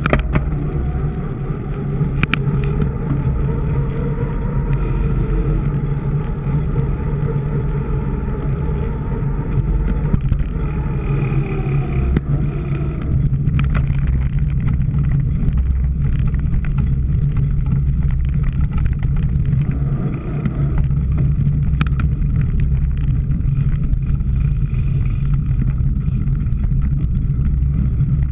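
Continuous low wind rumble on a camera microphone with scattered sharp clicks and rattles, as from a bicycle-mounted camera on a cyclocross bike riding over rough ground.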